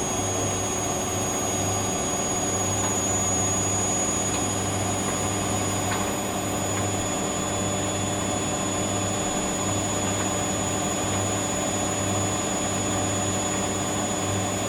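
Hoover Dynamic Next washing machine spinning at high speed, around 1,000 to 1,200 rpm, running steadily with a pulsing hum and a steady high-pitched whine. The owner puts the whine down to a screeching motor bearing.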